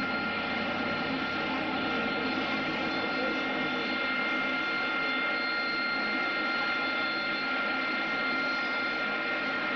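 Aircraft engine running at a constant speed, a steady drone with a fixed whine and no change in pitch.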